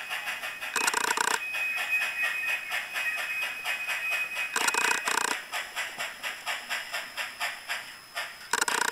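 Soundtraxx Tsunami decoder's Heavy Steam sound played through a small speaker in an N scale steam locomotive model: a fast, even run of steam chuffs, about four a second. Three short, louder blasts come about a second in, about four and a half seconds in, and near the end.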